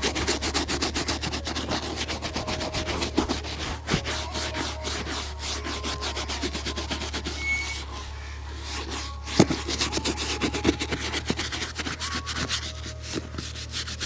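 A shoe being buffed by hand during a shoe shine: fast, even rubbing strokes, about five a second. The strokes pause briefly a little past halfway, where there is a single sharp knock, then carry on. A steady low hum runs underneath.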